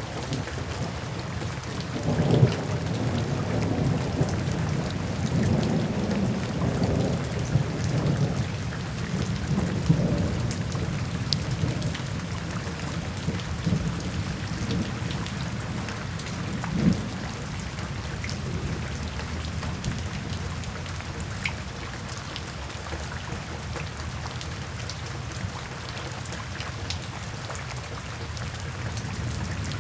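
Steady rain drumming on a tin roof, with low rolls of thunder swelling through the first third and one more sharp rumble about halfway through.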